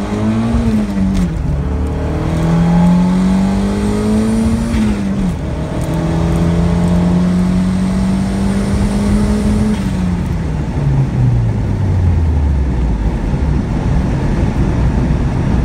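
Turbocharged Honda Civic four-cylinder engine heard from inside the cabin, pulling under boost. The engine note rises and drops back twice at gentle upshifts, made to spare a slipping clutch, then holds steady. About ten seconds in the note falls away as the throttle is lifted and the car slows hard on the brakes, leaving road and tyre rumble.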